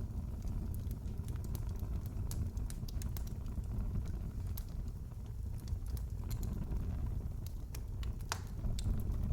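Wood fire crackling in a fireplace: scattered sharp pops and snaps over a steady low rumble, with one louder pop about eight seconds in.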